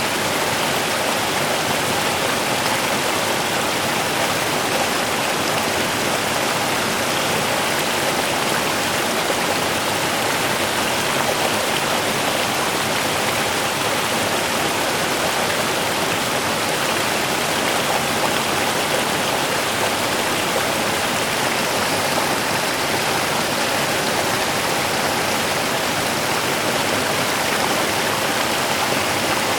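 Small river running over stones: a steady, unbroken rush of water.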